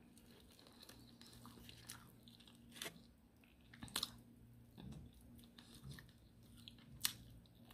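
Faint close-up eating sounds: biting into and chewing a chicken drumstick, with a few short sharp mouth clicks and smacks, the loudest about seven seconds in.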